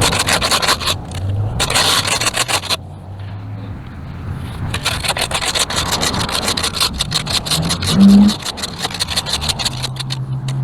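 Rapid, repeated scraping strokes, a hand tool scraping dirt and grass off a concrete sidewalk, easing off for a moment about three seconds in, then running on in quick strokes.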